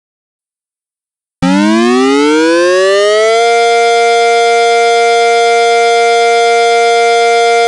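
Electronic outdoor warning siren starting abruptly about a second and a half in, winding up in pitch for about two seconds and then holding a loud, steady tone.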